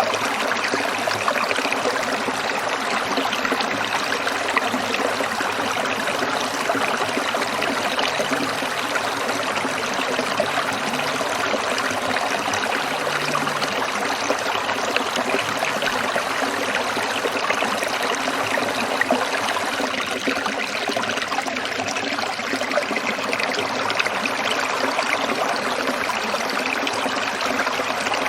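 A stream trickling and splashing over stones, a steady even rush of water with fine rapid bubbling.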